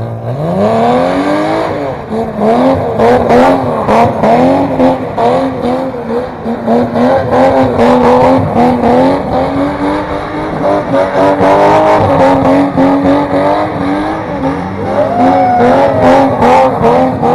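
BMW E30 engine held at high revs, its pitch bobbing up and down over and over as the throttle is worked, with tyre squeal, as in a burnout or drift.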